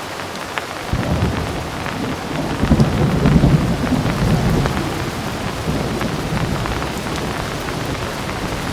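Heavy rain falling steadily with scattered sharp drop ticks, and a low roll of thunder that builds about a second in, is loudest around three seconds in, and rumbles on underneath the rain.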